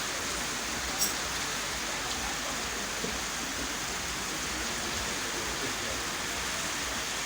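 Heavy rain falling steadily as an even hiss, with one brief sharp tick about a second in.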